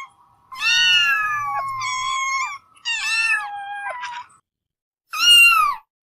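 Kittens meowing in high-pitched calls: a long drawn-out meow about half a second in, another around three seconds, and a short one near the end.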